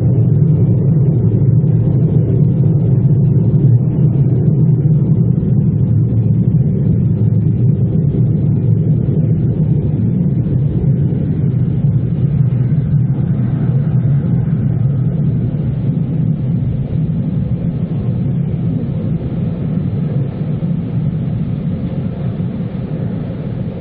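Automatic car wash machinery running with a steady, loud low roar that slowly fades.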